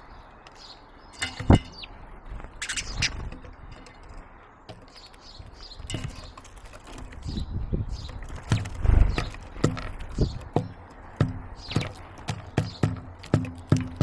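Garden birds feeding at a wooden bird table right beside the camera: a string of sharp pecking taps and knocks on the wood, sparse at first and then about two a second in the second half, with a few faint chirps.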